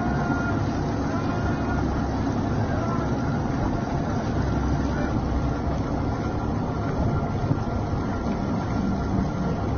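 A boat's engine running steadily, a continuous low drone without change.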